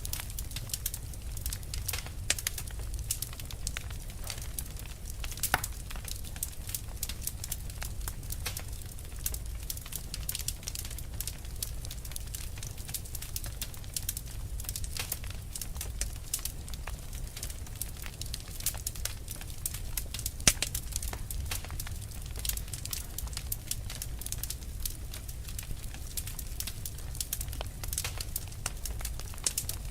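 Fire burning with continuous irregular crackling, dense small snaps and a few louder pops over a low steady rumble.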